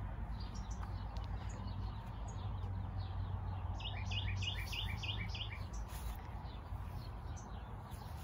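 A songbird singing a rapid run of short, falling chirps, about six a second, about four seconds in, with fainter chirps around it, over a steady low outdoor hum.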